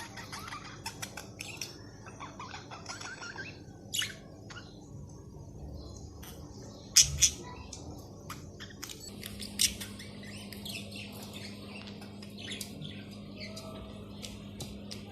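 Pet budgerigars chirping and chattering in quick, short calls, with two louder sharp sounds about seven seconds in. A steady low hum comes in about nine seconds in.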